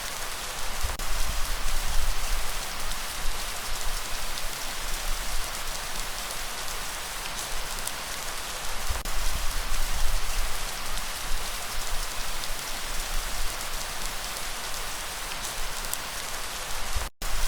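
Heavy rain falling steadily, a dense even hiss over a deep low rumble that swells a few times. The sound cuts out for an instant near the end.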